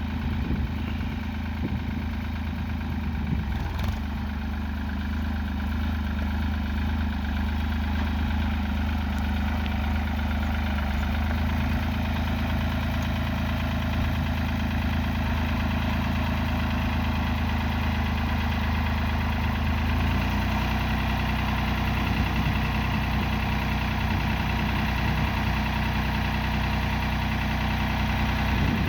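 Fiat-Hesston 55-46 tractor's diesel engine idling steadily. Its engine speed steps up slightly about two-thirds of the way through.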